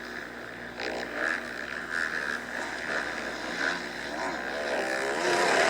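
Motocross dirt bikes running on the track, their engines swelling and fading as they pass, with one engine note climbing in pitch near the end as a bike accelerates.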